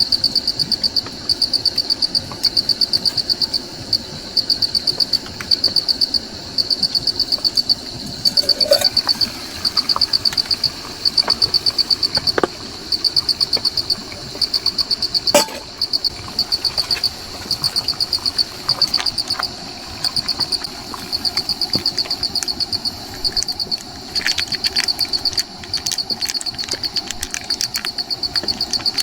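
A cricket chirping: short, high-pitched trains of rapid pulses, about one a second, over and over. Scattered small clicks, with one sharp knock about halfway through.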